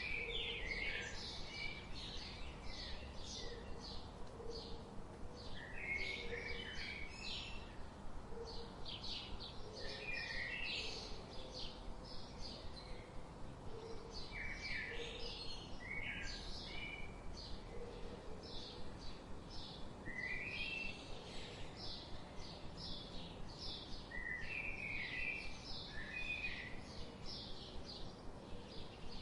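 Songbirds singing: rapid short high chirps go on throughout, with a lower warbling phrase breaking in every few seconds, over a steady background hiss.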